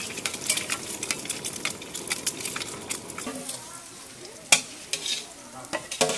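Food frying in hot oil, sizzling, while metal cooking utensils stir and clink against the pan. The sizzling thins out about three seconds in, and a single loud metallic clank comes about a second and a half later.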